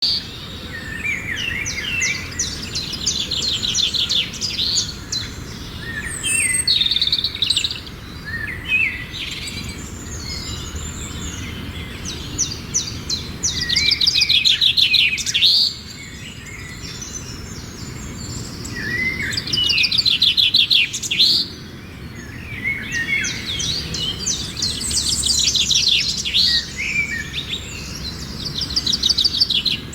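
Birds chirping and singing in rapid trilled phrases that repeat every few seconds over a steady low background noise.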